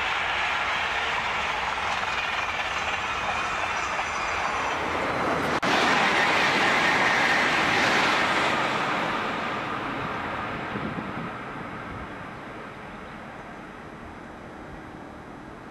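TGV high-speed trains passing: a double-deck TGV Duplex running by, then, after a cut about five and a half seconds in, a second TGV passing close at high speed. The passing noise is loudest a second or two after the cut and fades away steadily as the train recedes.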